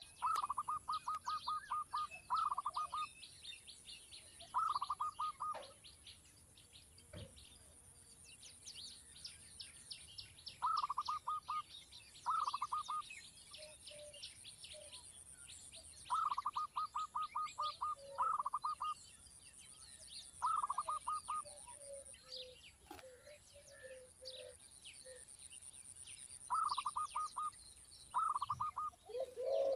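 Small bird calling in bursts of rapid, evenly repeated chirps, about ten notes to a burst, with a burst every two to five seconds. Fainter, higher chirping runs behind them.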